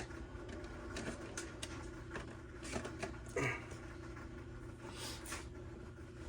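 Scattered light clicks and taps of small parts being handled at a workbench, with a brief rustle about three and a half seconds in, over a steady low hum.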